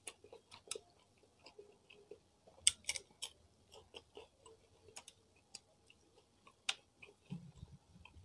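Close-miked chewing of fried salted fish (ikan peda), with scattered sharp mouth clicks and smacks. There is a louder cluster of clicks about three seconds in and another near seven seconds.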